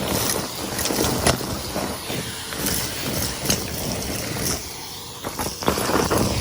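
Henry vacuum cleaner running, sucking up crunchy debris, with frequent sharp clicks and rattles over the steady noise.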